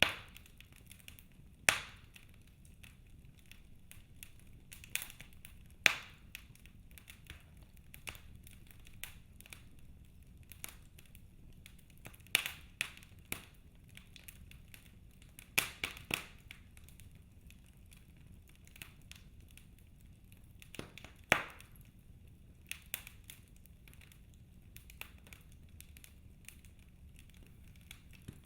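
Wood fire in a fireplace crackling: irregular sharp pops and snaps, a few louder ones every few seconds, over a faint steady hiss.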